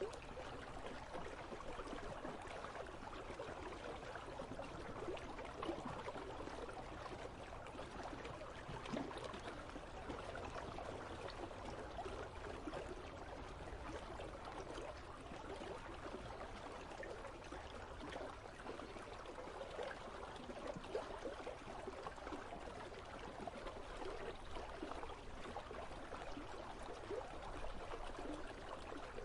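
An icy river flowing steadily, its water running with a constant rush and many small splashes.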